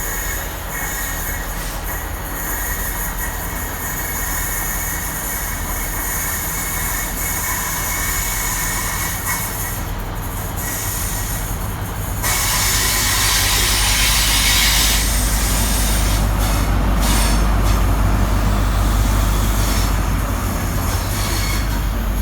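High Speed Train with Class 43 diesel power cars pulling into a station: a steady low diesel engine hum over wheel-on-rail noise. About twelve seconds in it grows louder, with a few seconds of hissing, squealing brake and wheel noise as the train draws in.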